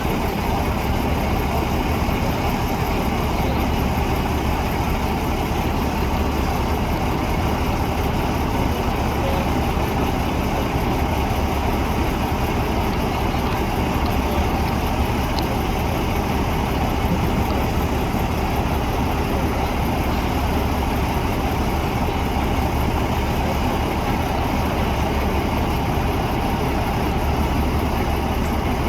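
Heavy truck engine running steadily at low revs, a deep, even rumble with no revving or pauses.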